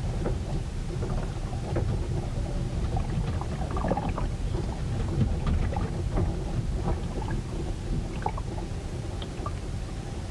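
Storm sounds aboard a moored ship: a steady low rumble of wind and water working against the hull, with many small scattered knocks and splashes, busiest in the middle.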